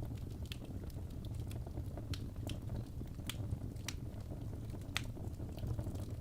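Birchwood logs burning in a fireplace, crackling: irregular sharp pops over a steady low rumble of flame, with the sharpest cracks about two, three and five seconds in.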